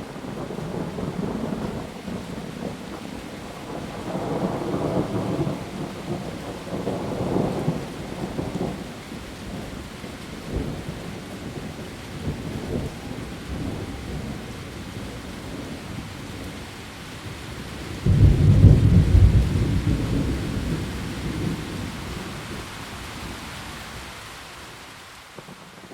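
Heavy rain falling steadily on leaves, with thunder rolling in the low range. About three-quarters of the way through, a sudden loud thunderclap breaks in and rumbles away over several seconds.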